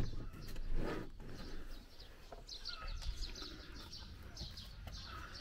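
Two brief bumping, rustling handling noises in the first second, then small birds chirping repeatedly in high short notes.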